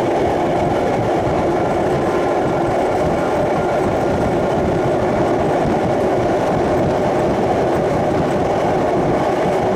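Victorian Railways Tait electric suburban train running at speed, heard from on board beside an open window or door: a steady, even rumble of wheels on rail, with a faint steady whine above it.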